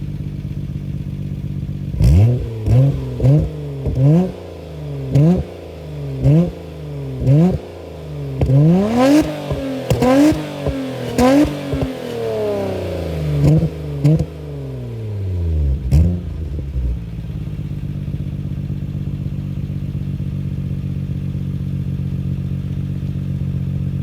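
Nissan Skyline GT-R (BNR32) RB26DETT twin-turbo straight-six through an HKS Dual Dragger exhaust with a metal catalyser and stainless front pipe, idling, then blipped in a string of quick revs, each pitch rising and falling back, with a few longer revs in the middle. It settles back to a steady idle about sixteen seconds in.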